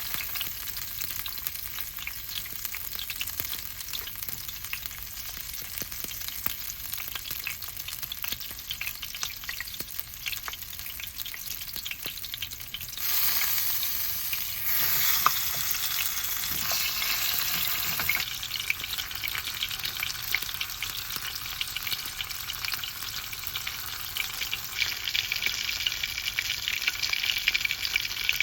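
Bone-in Awaodori chicken frying in a pan: a steady crackling sizzle of hot fat, which swells into a louder, fuller hiss for a few seconds about halfway through.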